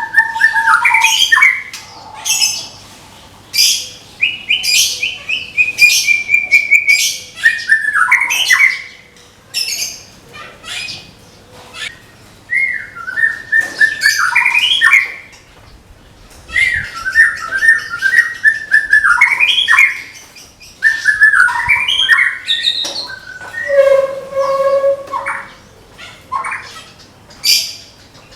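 White-rumped shama (Medan-type murai batu) singing its 'tembakan' song: loud, varied phrases a second or two long with short pauses between, mixing whistled notes that step up and down in pitch with sharp, clicking notes fired off in rapid series.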